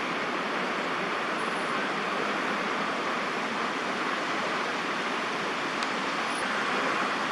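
Steady hum of distant city road traffic, with one faint tick about six seconds in.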